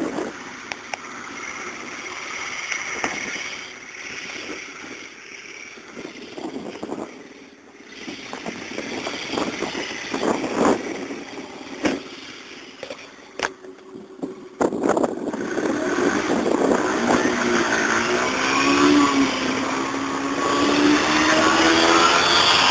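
Stock Romet 717 four-stroke motorcycle engine running, uneven and fairly quiet at first, then suddenly louder about two-thirds of the way in, its pitch rising as it accelerates.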